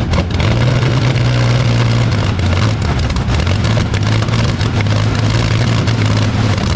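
Rolls-Royce Meteor V12 engine firing and running with a loud, steady low drone, then cutting out near the end.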